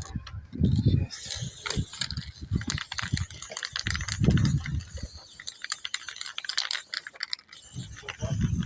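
Irregular clicking and rattling of small hard objects being handled, with dull low thumps every second or so.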